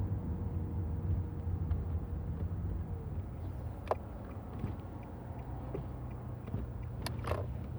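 Steady low rumble of vehicle and road noise, with a few short, sharp high sounds about four seconds in and twice near the end.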